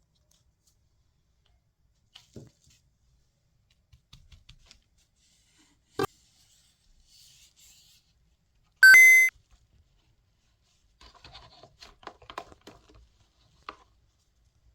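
Light handling of small toys, with a sharp click about six seconds in and a short, loud, buzzy electronic beep about nine seconds in, then crinkly rustling near the end.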